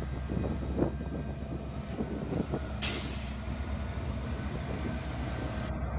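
Freight train with Norfolk Southern diesel locomotives and boxcars rolling slowly past: a steady low diesel rumble with short wheel squeaks in the first few seconds. A brief burst of hiss comes about three seconds in.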